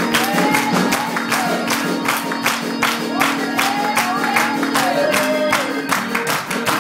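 Church organ and drums playing an upbeat praise break: held organ chords under a fast, steady drum beat, with voices calling out over the music.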